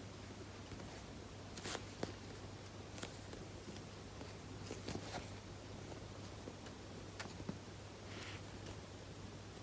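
Hands handling and squeezing a slow-rising foam squishy: soft rustles and a few light taps and crinkles, scattered a second or so apart, over a faint steady low hum.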